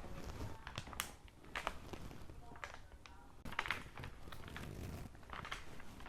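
Handling noises: a scattering of small clicks, taps and rustles as things are moved and fiddled with by hand.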